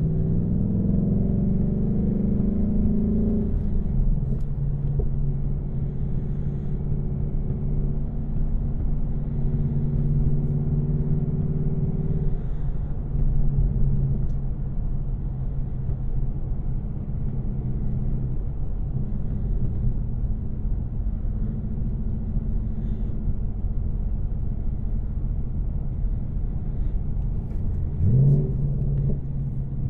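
2024 Ford Mustang GT's 5.0-litre V8, stock without headers, running under light load while driving, a steady low drone. The engine pitch drops about four seconds in, shifts again near twelve seconds, and rises quickly near the end.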